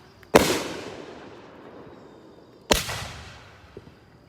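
Two loud firework shell bursts from a 500-gram consumer cake (Wenda's Angry Panda), about two seconds apart, each a sharp bang followed by a rolling echo that fades over more than a second. A small pop follows near the end.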